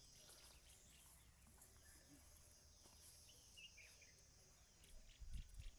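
Near silence: faint rural outdoor ambience with a steady high insect buzz and a brief bird chirp about three and a half seconds in. A low rumble comes in near the end.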